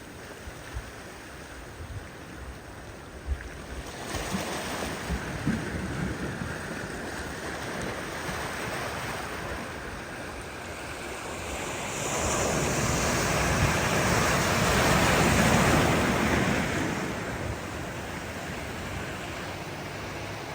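Ocean surf washing onto the shore, building a few seconds in, with one larger wave surging loudest for several seconds near the middle before easing back.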